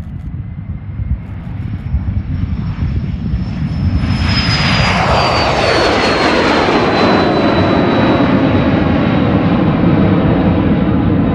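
HondaJet's twin GE Honda HF120 turbofan engines running loud. The jet noise swells about four seconds in, and a high whine slides down in pitch as the jet goes past.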